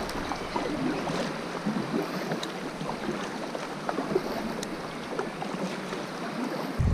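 Sea water lapping and splashing against a kayak hull, with scattered small clicks and drips.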